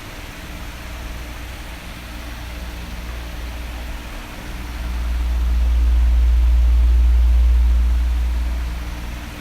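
Electric fan running with a steady whooshing hiss and a low hum. About halfway through, a deep low rush swells up, becoming the loudest part, then fades near the end.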